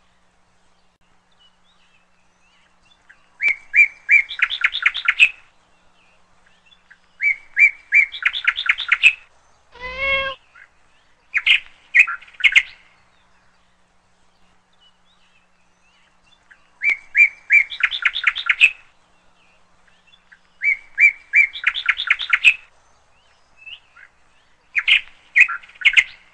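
A songbird sings the same short song six times over, each a few clear notes running into a fast trill, with pauses of a few seconds between. A single lower, drawn-out call comes about ten seconds in.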